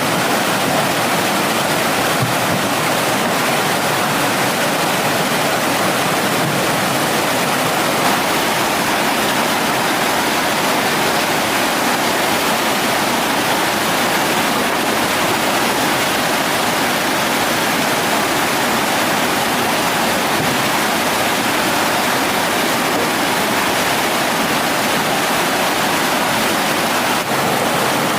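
Mountain stream water rushing, a loud steady wash of noise with no breaks.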